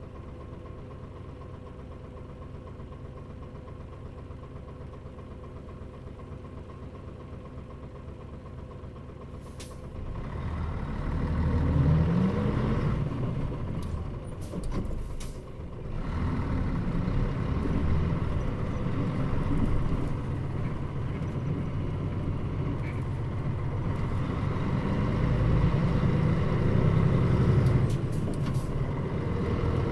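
Mitsubishi Fuso Aero Star bus (Nishi-Kō body, KL-MP35JM chassis) heard from inside the cabin: the engine idles steadily, then about ten seconds in a short air hiss is followed by the engine pulling away and speeding up. The engine note drops out briefly twice as the gears change, then keeps running louder under load.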